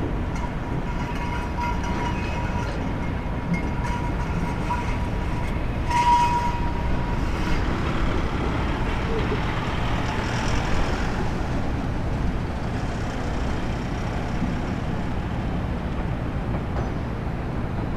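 High-speed jetfoil running with a steady low rumble and a thin whine that fades out about seven seconds in, then a rushing hiss that swells and falls off around ten seconds.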